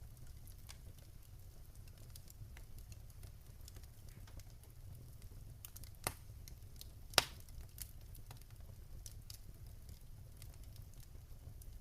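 Wood fire in a fireplace crackling, with scattered small pops and two louder pops about six and seven seconds in, over a low steady rumble.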